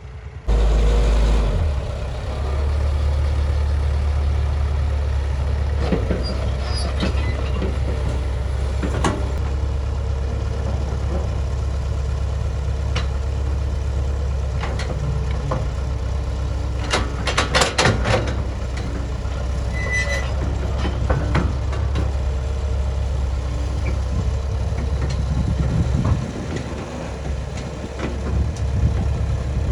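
Bulldozer's diesel engine running steadily under load, a deep drone that comes in sharply about half a second in. Scattered metallic clanks and knocks from the machine at work, thickest about a quarter and again about halfway through.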